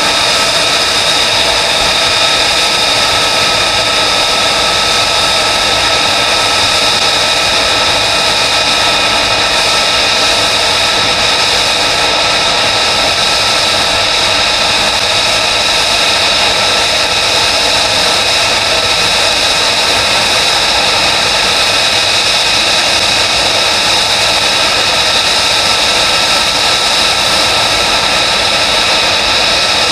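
F-35B's Pratt & Whitney F135 turbofan running steadily at ground idle: an unbroken rushing noise with several high whining tones over it.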